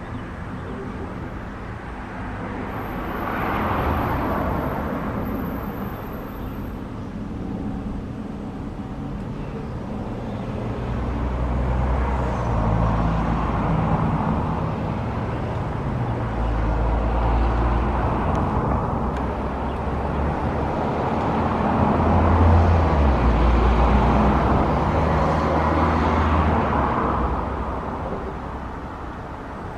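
Airbus A350-900's Rolls-Royce Trent XWB jet engines at take-off power, a continuous roar that swells and eases several times, with a heavy low rumble in the second half.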